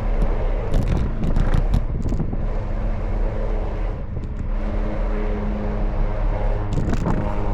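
Street traffic: a steady low engine hum with a cluster of rattling clicks in the first couple of seconds, and a stronger engine drone building up near the end.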